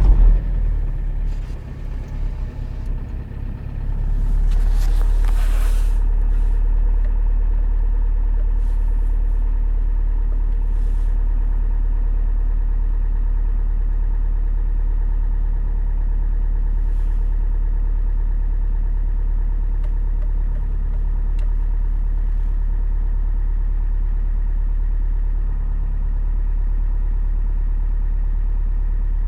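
Opel Astra H's 1.9 CDTI (Z19DTH) four-cylinder turbodiesel, just fired up cold at about −10 °C, running unevenly for the first few seconds and then settling into a steady idle.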